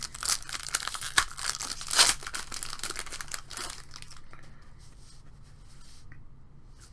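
A wrapper on a pack of trading cards being torn open and crinkled by hand, with sharp rips about a second and two seconds in, then it dies away to quiet handling after about four seconds.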